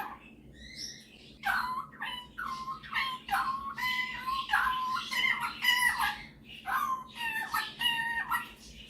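A superb parrot (Barraband parakeet) calling in a string of short, pitched warbling phrases that start about a second and a half in and rise and fall in pitch.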